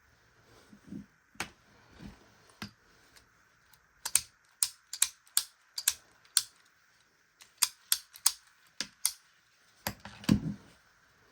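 A run of sharp, irregular clicks and taps from small hard objects, about twenty in all, with a heavier knock about ten seconds in.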